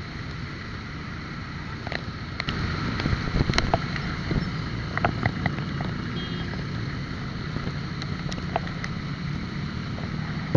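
Steady wind buffeting the microphone and road rumble from a moving bike, with scattered clicks and a few short high chirps about halfway through.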